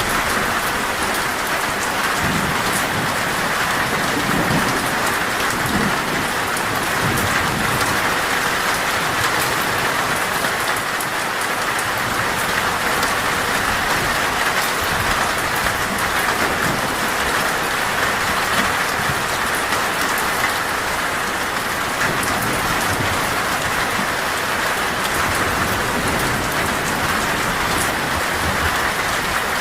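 Torrential rain pelting a metal roof in a steady dense hiss, with low rumbles of thunder now and then, most in the first several seconds.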